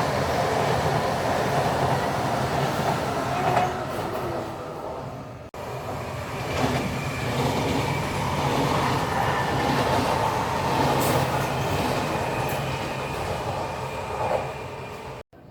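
Train running on the rails with steady wheel and track noise. The sound cuts off abruptly about five and a half seconds in, and similar train noise starts again at once.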